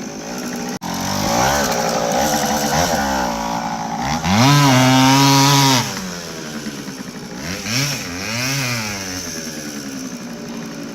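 Small two-stroke moped engine revving up and down, with one hard rev about four seconds in that is held high for about a second and a half before dropping back, and a smaller rise and fall later.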